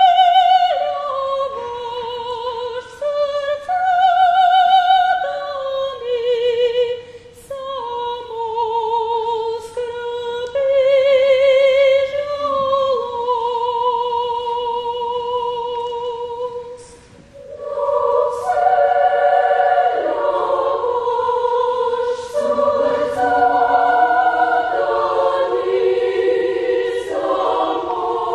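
A cappella Bulgarian folk song: a solo voice sings a slow melody with vibrato, then after a short breath a children's choir comes in, singing in several-part harmony.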